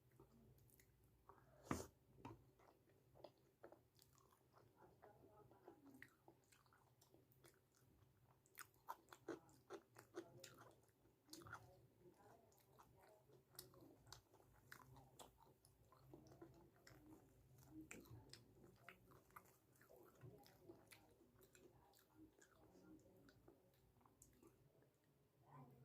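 Faint close-up chewing and biting of food, with soft wet mouth clicks and smacks throughout and one sharper click under two seconds in.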